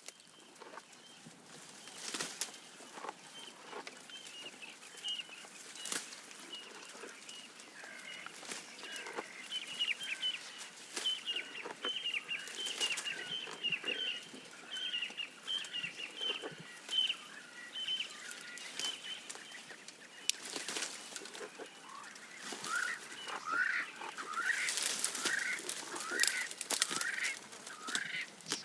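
Birds calling in quick runs of short, repeated notes, with a series of rising chirps near the end. Sharp snaps and crackles come in between.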